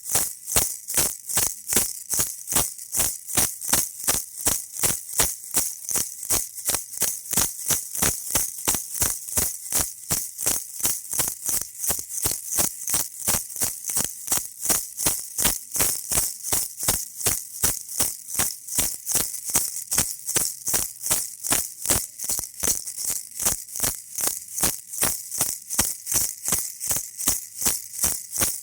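Baby rattle shaken in a steady rhythm, about two to three bright, high shakes a second.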